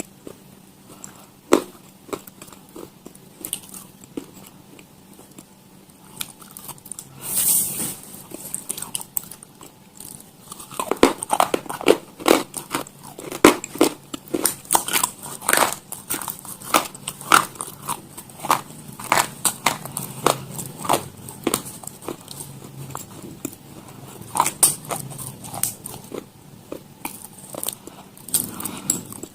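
Crunchy food being bitten and chewed close to the microphone: crisp crunches and crackles, sparse at first, then coming thick and fast about a third of the way in.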